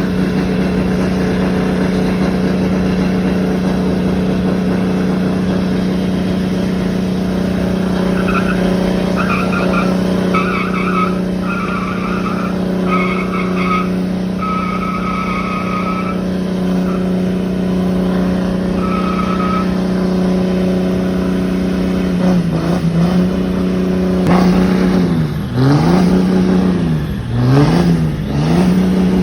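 Truck engine held at a steady high rev during a burnout, with tires squealing and a high tone breaking in and out for several seconds in the middle. Near the end the engine is revved up and down again and again.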